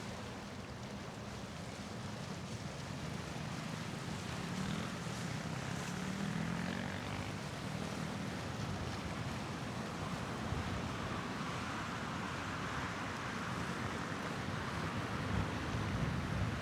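Steady outdoor waterfront ambience, a continuous wash of noise, with a low engine hum that rises in pitch about five seconds in, as from a passing vehicle.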